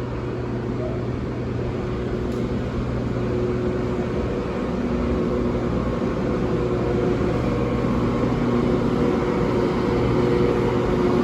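Class 92 electric locomotive hauling a freight train past, a steady electric hum with several held tones over the rumble of the train. It grows slowly louder.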